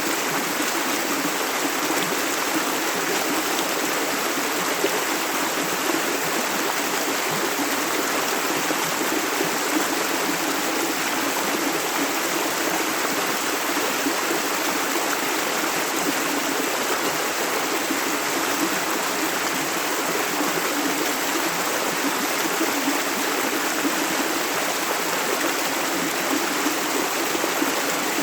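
Clear river water flowing and babbling over stones, a steady, even rush.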